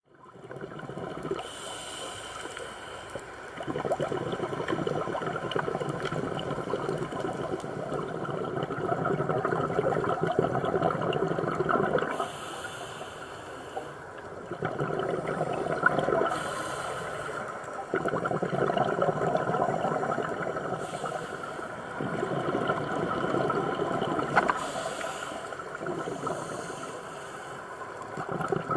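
Scuba diver breathing through a regulator underwater: hissing inhalations and long bubbling exhalations that swell and ease in cycles of a few seconds.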